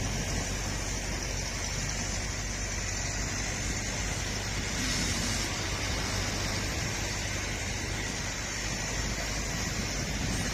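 Steady rushing noise with a low rumble underneath, even throughout.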